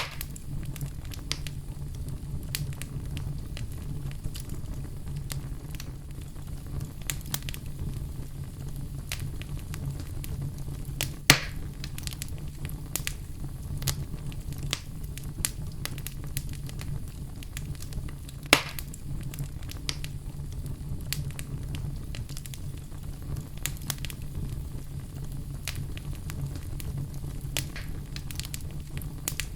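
Wood fire in a fireplace crackling steadily with frequent small snaps over a low, even rumble, and two much louder pops, one about eleven seconds in and one about eighteen seconds in.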